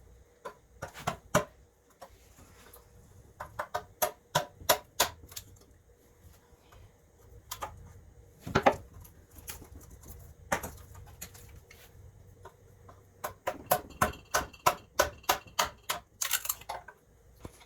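Hand chisel working into a block of wood: sharp taps and knocks in irregular runs of several at a time, with short pauses between them.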